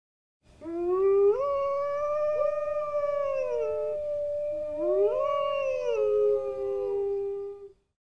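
Grey wolves howling: long, drawn-out howls that rise at the start and then hold steady, with a second howl rising in and overlapping the first about halfway through.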